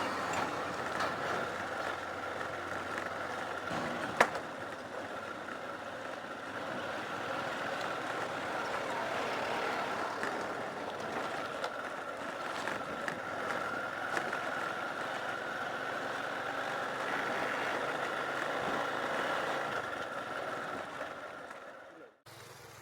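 Motorcycle riding along a rough dirt road, with steady engine and road noise and a sharp knock about four seconds in. The sound drops away abruptly just before the end.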